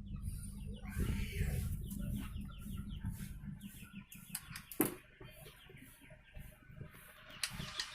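Birds calling in short, rapidly repeated clucking chirps, with a single sharp click about five seconds in.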